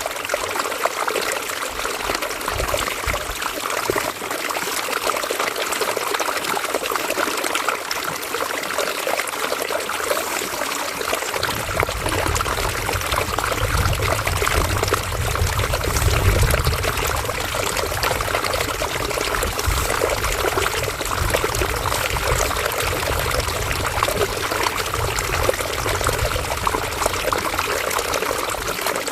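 River water flowing and trickling over stones, a steady babbling rush. A low rumble joins underneath about a third of the way in and continues.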